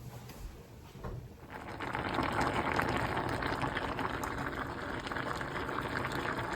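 Food cooking on the stove: a steady bubbling hiss that starts about a second and a half in and holds.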